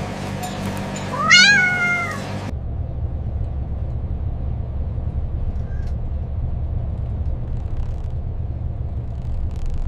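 A cat meowing once, a single call about a second long that rises and then falls in pitch, a little over a second in. Under it runs a steady low rumble.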